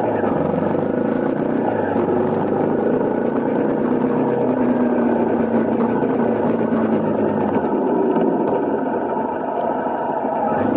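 Honda CRF250L's single-cylinder four-stroke engine running at a steady pace while riding, under a steady rush of wind noise.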